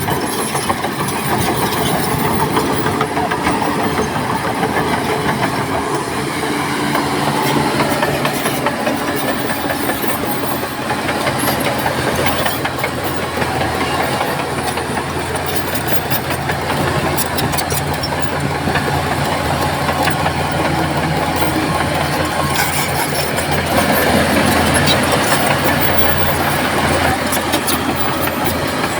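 Heavy diesel engine of a Shantui crawler bulldozer running steadily under load, with metallic clatter in places.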